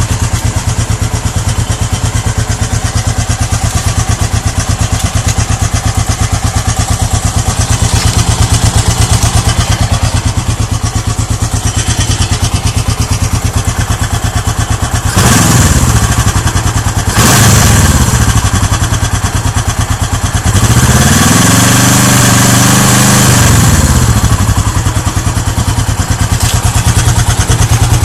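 Suzuki GS400 parallel-twin motorcycle engine idling with an even pulsing beat, blipped briefly twice about halfway through, then revved up and back down for about three seconds.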